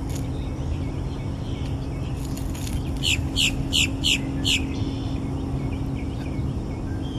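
A bird gives a quick series of five chirps, each sweeping downward in pitch, about halfway through. Under it runs a steady low rumble with a faint constant hum.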